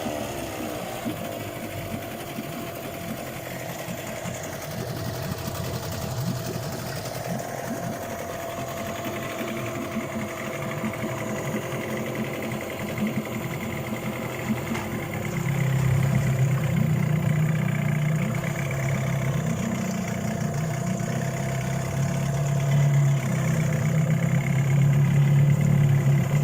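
Yamaha 8 hp outboard motor running, its revs falling away right at the start and settling to a steady idle. It gets louder and deeper about two-thirds of the way through.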